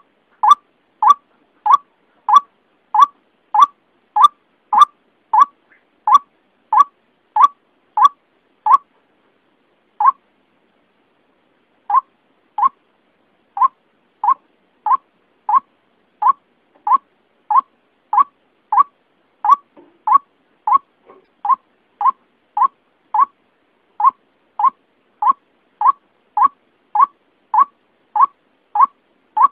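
White-breasted waterhen (ruak-ruak) call played as a bird-trapping lure: a steady series of short, clipped notes, about three every two seconds, with a brief pause about nine seconds in before the series resumes.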